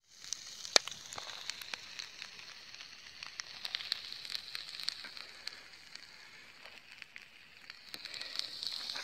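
Food cooking over a campfire: a steady sizzling hiss with frequent sharp pops and crackles, one loud pop under a second in.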